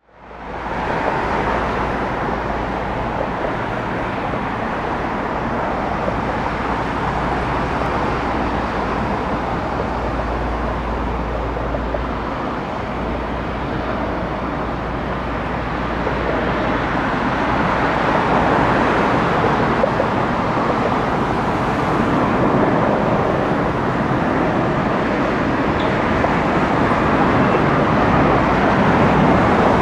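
Jet airliner engine noise at an airport: a steady roar that swells louder through the second half.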